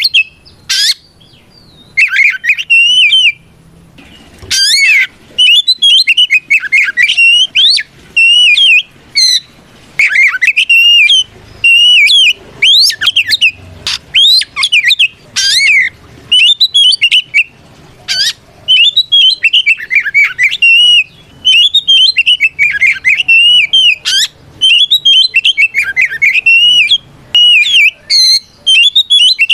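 Oriental magpie-robin (kacer) singing a loud, near-continuous song of fast, varied whistled phrases that rise and fall. It is the male's challenge song calling out a rival, used to provoke other magpie-robins into answering.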